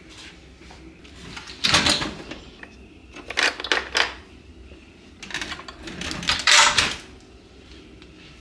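Household handling noises: three clusters of short, sharp bursts, like objects being moved and set down, about two, four and six to seven seconds in.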